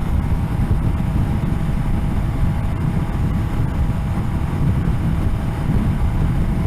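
Steady wind rush over a helmet microphone, mixed with the low drone of a BMW K1200GT's inline-four engine, heard while the motorcycle is being ridden.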